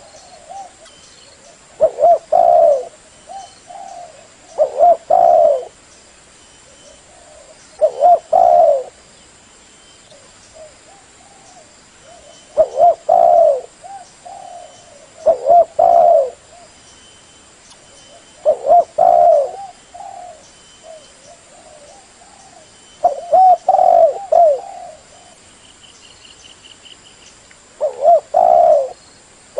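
Spotted dove cooing: a loud phrase of deep, rolling coos repeated about every three seconds, with softer coos between the phrases. A small bird chirps faintly about 26 seconds in.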